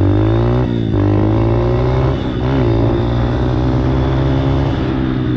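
Dirt bike engine running while under way, its revs holding steady with two brief dips, about one second and two and a half seconds in.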